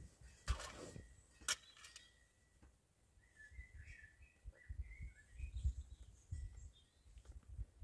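Faint bird chirping, a short run of quick twittering calls around the middle, over soft bumps and rustles of handling close to the microphone.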